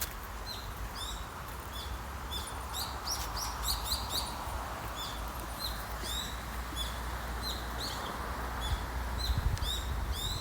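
Small birds chirping: a dense series of short, high chirps, several a second, over a steady background hiss and low rumble.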